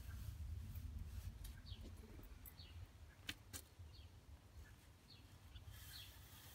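Very quiet: a faint low rumble with a few short, falling bird chirps scattered through it, and two sharp clicks a fraction of a second apart about three seconds in.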